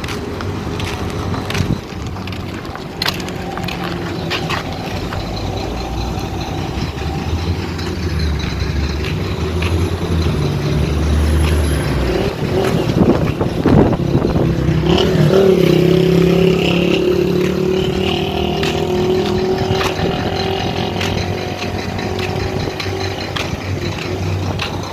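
A motor vehicle's engine running, its pitch shifting up and down, with scattered knocks and rattles.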